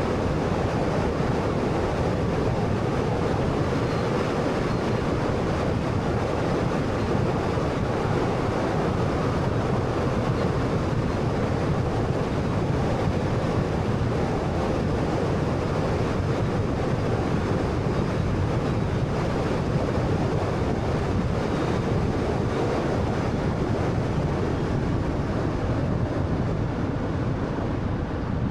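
Steady road and tyre noise with wind rush from a 2013 Honda Fit with a 1.3-litre engine driving at an even speed.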